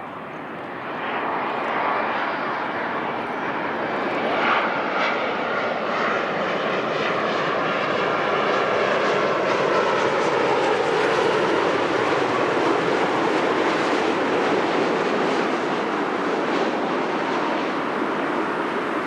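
Jet airliner engines, loud and building about a second in, with a whine that falls in pitch as the aircraft passes the runway end. The rumble then stays steady.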